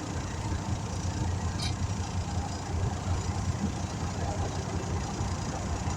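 An engine running steadily with a low, even hum, and a faint short click about a second and a half in.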